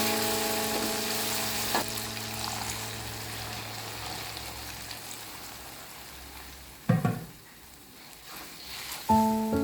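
Food sizzling as it fries in a pan, a steady hiss, with one short knock about seven seconds in. Background music with held notes fades in the first two seconds and comes back near the end.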